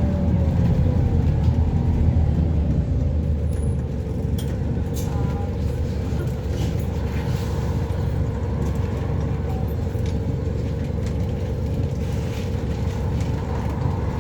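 Double-deck bus running, heard from inside the passenger cabin: a steady low engine and road rumble, with a faint steady whine coming in about four seconds in.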